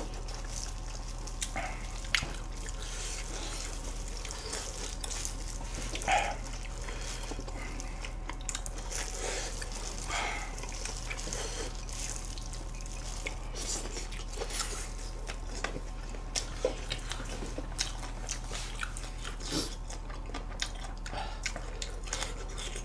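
Close-up mukbang eating sounds: chewing and biting on spicy stir-fried food, with scattered short wet clicks and smacks of the mouth. A steady low electrical hum runs underneath.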